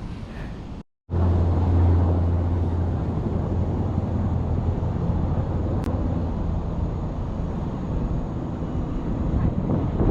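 A steady low rumble with noise over it. It starts after a brief cut in the sound about a second in.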